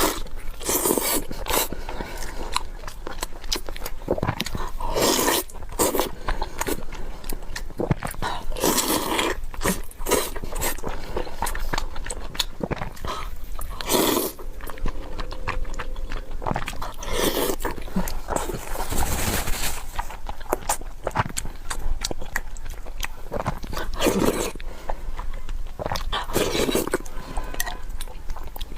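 Close-miked eating sounds: chewing, biting and lip-smacking through mouthfuls of rice with braised pork, in a quick irregular run of wet mouth noises.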